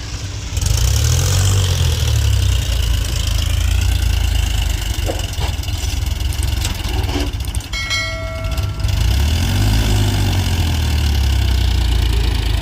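Diesel engine of a Powertrac Euro 50 tractor running under load, revving up about a second in and again near the end. A brief steady high tone sounds about eight seconds in.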